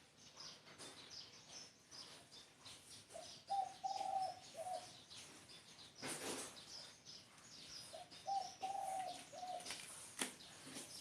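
Spotted dove cooing twice, each a short phrase of about four notes. Thin chirps of small birds run under it, with a couple of short clicks.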